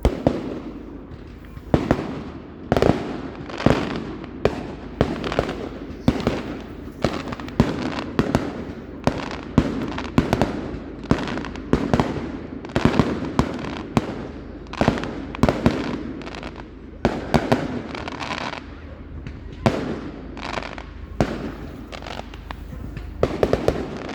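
Fireworks going off close by: a long run of sharp bangs and cracks, several a second at times, some in quick clusters, over a continuous rumble and crackle.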